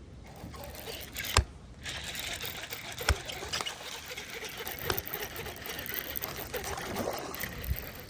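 Fishing reel being cranked, a fast mechanical ticking, with two sharp knocks about a second and a half and three seconds in.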